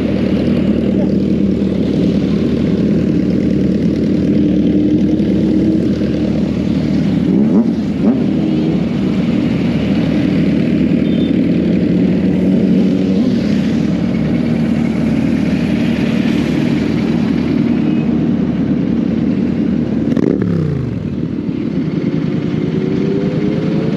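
Royal Enfield Continental GT 650's parallel-twin engine running steadily at riding speed; about 20 seconds in the revs fall away, then climb again near the end as it accelerates.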